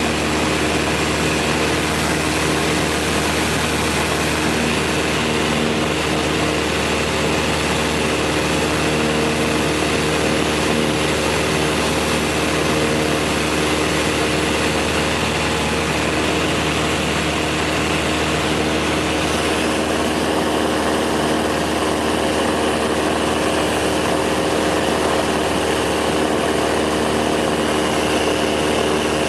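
Cessna 172 SkyHawk II's piston engine and propeller droning steadily in flight, with an even, unchanging pitch and level.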